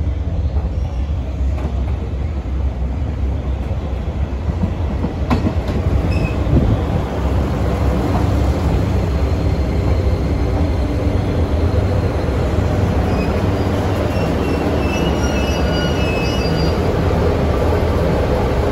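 JR Kyushu YC1 series hybrid diesel railcar pulling into the station, a steady low rumble of engine and wheels that grows louder as it comes alongside the platform. Several short high squeals sound near the end as it slows to a stop.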